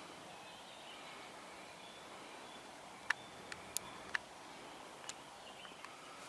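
Quiet riverside outdoor ambience with faint bird calls and a few sharp clicks about three to five seconds in.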